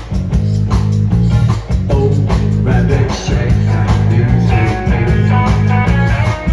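Live rock band playing a late-1960s-style rock song, guitars and drums with a steady beat, in an instrumental stretch between sung lines.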